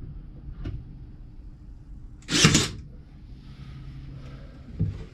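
A staple gun firing once into the cedar picket wood, a short sharp snap about two and a half seconds in, with a small click near the end and a low hum underneath.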